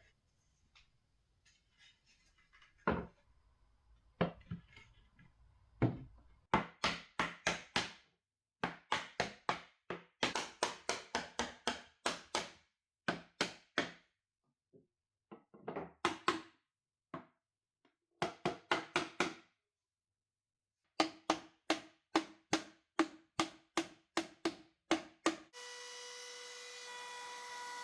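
Hammer or mallet blows on wood, in quick runs of four to six strikes about four a second with short pauses between runs, each blow ringing briefly at the same pitch.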